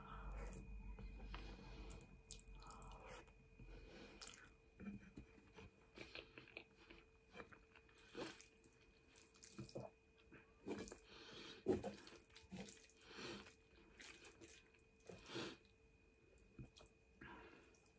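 Faint chewing of spaghetti, heard as short, irregular mouth sounds every second or so.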